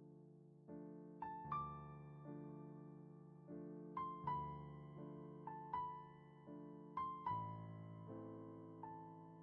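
Soft, slow solo piano music: gentle chords and single melody notes, struck about once or twice a second and each left to ring and fade.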